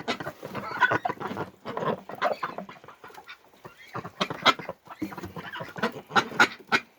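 A flock of hungry domestic ducks eating a grain and potato feed mix, with many short irregular calls and feeding noises.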